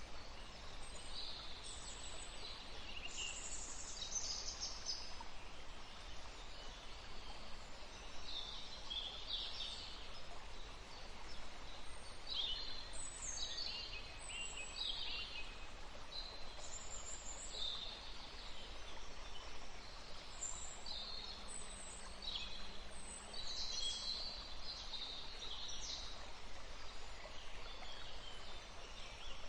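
Several small songbirds chirping and trilling in quick, overlapping calls, high-pitched, over a steady hiss of background noise.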